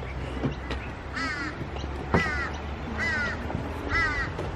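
A bird calling repeatedly: four short calls about a second apart, each falling in pitch, with a sharp knock about two seconds in.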